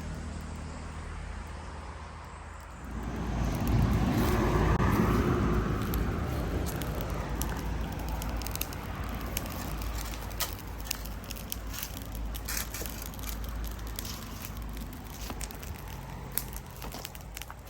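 Small wood fire crackling, with many sharp pops in the second half over a low steady hum. A loud rushing sound swells about three seconds in and fades away over the next few seconds.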